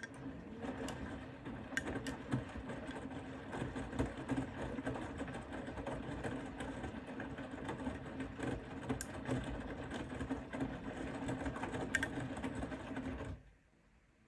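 Bosch Serie 4 WAK20260TR front-loading washing machine turning its drum during the wash: a steady motor hum with a busy clicking texture that starts suddenly and stops abruptly after about thirteen seconds.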